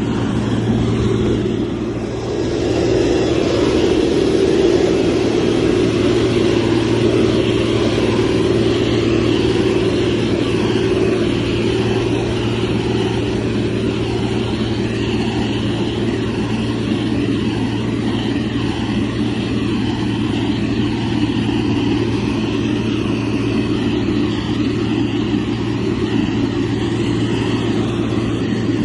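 Motor grader's diesel engine running steadily under working load, with a constant low hum. It eases off briefly about two seconds in, then picks up again.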